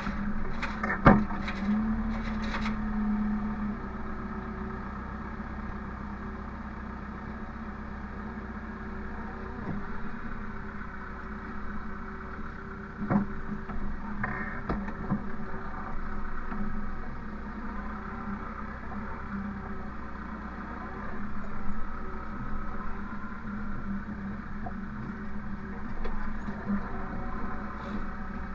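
Engine of the bale-loading machine running steadily, with a loud clunk about a second in and another near the middle.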